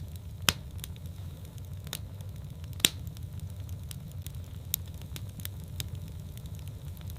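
Fireplace fire crackling: a steady low rumble of flame with sharp pops and snaps scattered through, the loudest about half a second and three seconds in.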